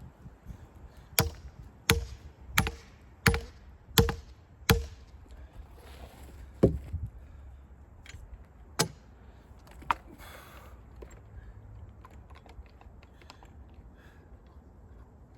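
A run of six sharp knocks at a steady pace, a little under a second apart, then a few scattered single knocks.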